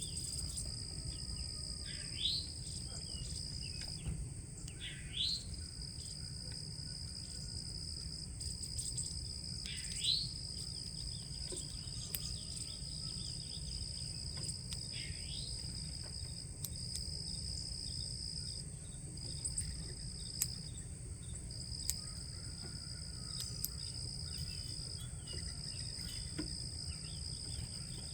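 Insects trilling steadily at a high pitch, with a bird giving four downslurred calls spaced several seconds apart, over a low background rumble.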